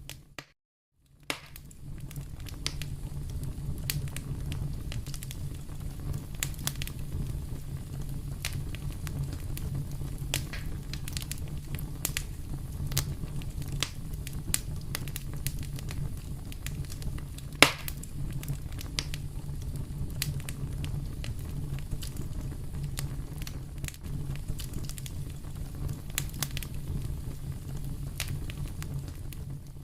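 Fireplace fire burning, a steady low rumble with frequent sharp crackles and pops, one much louder pop a little past halfway. The sound drops out briefly for under a second just after the start.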